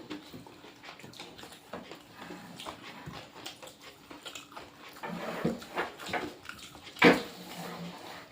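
Pet dog whining and whimpering softly, with one short, sharper cry about seven seconds in.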